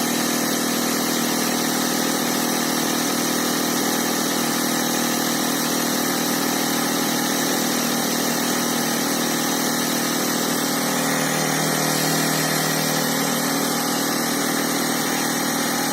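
Motor-driven air pump running steadily, pumping air through a hose into an inflatable boat's chambers as they near full pressure. Its note shifts slightly about two-thirds of the way through.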